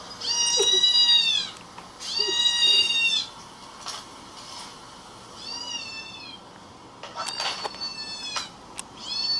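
Kitten-crying sound effect: about five high-pitched mews, each falling in pitch, the first two loudest and the later ones fainter, with a few light clicks in between.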